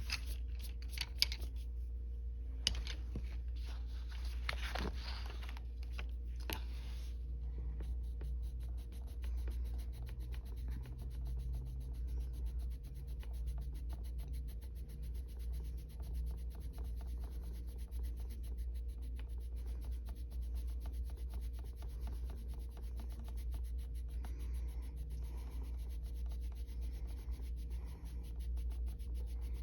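Coloured pencil scratching on paper in shading strokes: a few separate strokes at first, then fast, even back-and-forth strokes from about seven seconds in. A steady low hum runs underneath.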